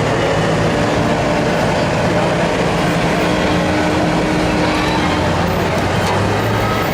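Loud engine of a modified pulling lawn tractor running steadily, with low engine tones under a dense mechanical noise.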